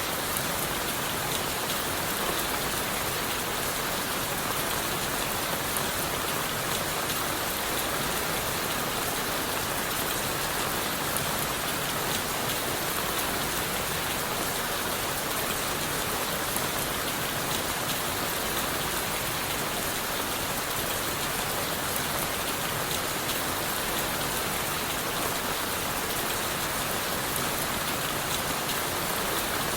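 Steady rain falling on forest leaves and wood, an even hiss with fine drop patter that does not change.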